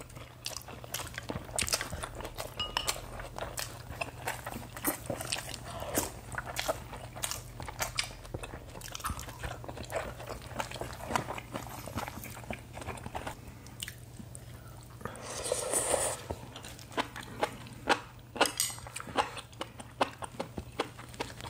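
Close-miked eating: chewing and crunching of lettuce wraps and stir-fried spicy pork, with many short clicks of chopsticks and bowls. A longer rushing sound of about a second comes a little past the middle.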